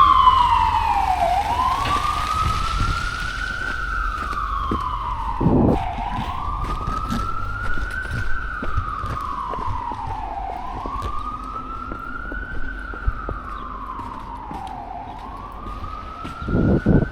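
An emergency vehicle's siren in a slow wail, its pitch rising and falling in long sweeps about every four and a half seconds, growing fainter as it goes. A couple of short low thumps come through about five seconds in and near the end.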